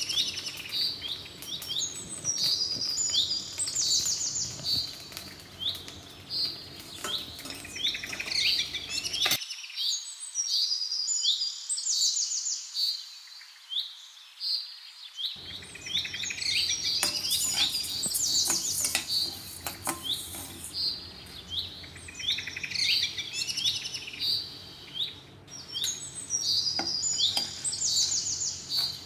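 Small birds chirping in repeated bursts of quick, high chirps, over a low background noise that drops out for several seconds about a third of the way in.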